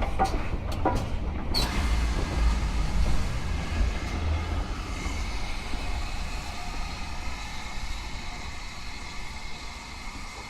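Steady running noise of a vehicle, slowly fading, with a few sharp clicks in the first second and a half.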